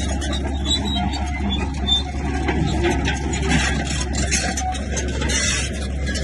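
Bulldozer's diesel engine running steadily under load, with irregular scraping and clanking on top.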